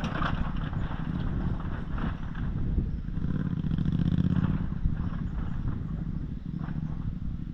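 Dual-sport motorcycle engine running with a steady low rumble, getting louder about three to four and a half seconds in.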